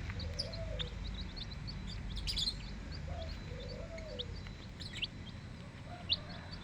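Small birds chirping: many short, high chirps scattered throughout, over a low steady rumble. Two faint tones each rise and fall over about a second, near the start and again about three seconds in.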